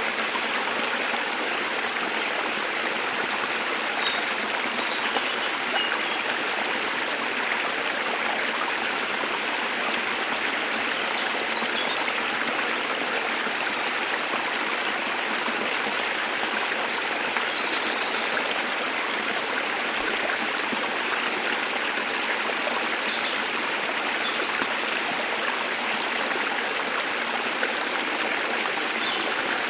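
A waterfall's water running in a steady, even rush, with a few faint, brief bird chirps now and then.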